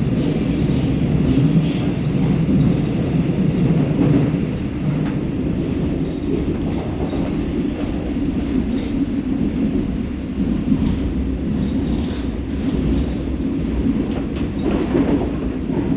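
Seoul Subway Line 4 electric train running between stations, heard from inside the passenger car: a steady rumble of wheels on track with occasional faint clicks.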